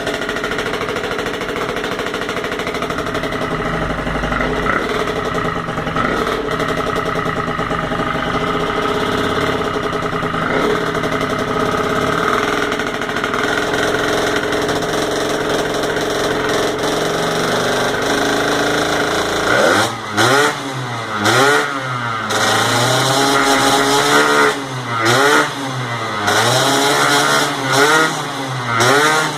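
Tuned motorcycle engine running at a fairly steady speed, then from about two-thirds of the way in blipped repeatedly: about eight quick revs, each rising and falling in pitch.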